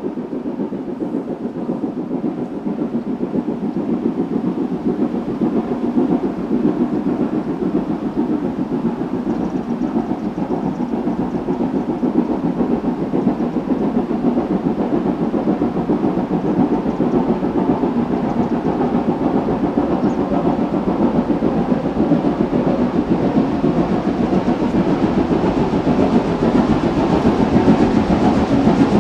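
Steam locomotive working a train up a steep gradient, its exhaust beat growing steadily louder as it approaches.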